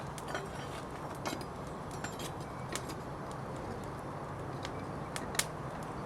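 Scattered light metallic clinks and ticks from handling the hot crucible and ingot moulds while pouring molten aluminium, with a sharper click about five seconds in, over a steady low hum.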